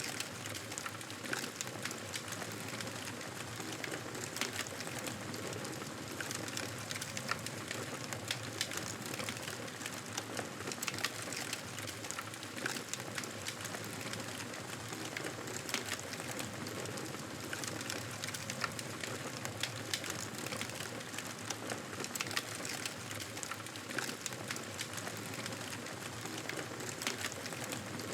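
Wood fire crackling: a steady hiss dotted with frequent, irregular sharp pops and snaps.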